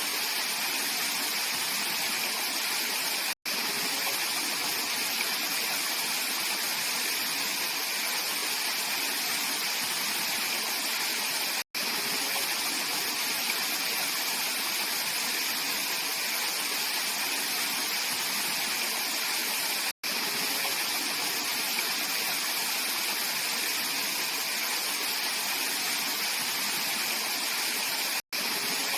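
Mountain valley stream flowing, a steady rush of water with its strongest sound in the high hiss. The sound drops out for a split second four times, about every eight seconds.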